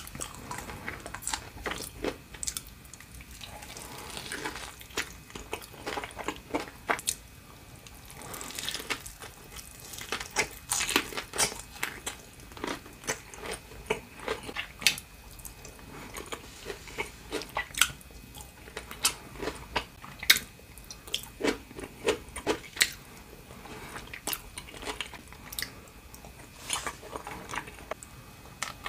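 Close-miked chewing and crunching of deep-fried sushi rolls, with irregular crisp crackles as the fried coating breaks between the teeth.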